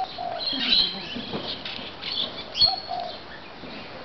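Birds calling: scattered short high chirps, with a couple of brief lower notes.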